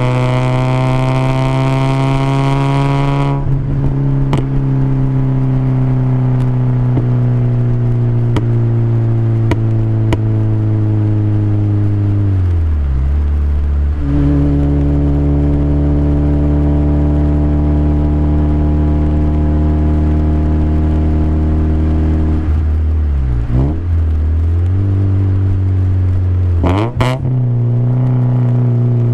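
Toyota Corolla 7A-FE 1.8-litre four-cylinder running through aftermarket headers and a Magnaflow exhaust, with a steady droning note. Engine speed drifts slowly and dips sharply a few times, near halfway and twice near the end, as the throttle and revs change.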